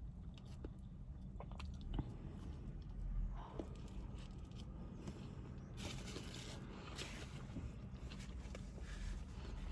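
Close-miked chewing and biting of a person eating fast food: soft wet mouth sounds with small crunches and clicks, over a low steady hum.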